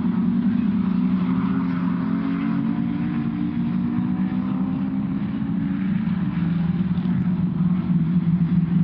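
Several racing Jaguar Mk 1 and Mk 2 saloons' straight-six engines running together through a slow corner, their exhaust notes overlapping in a steady low drone. One note climbs about two seconds in.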